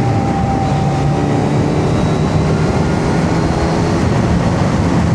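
Kawasaki Z900's inline-four engine running at a steady cruising pace, with a rush of wind noise over it.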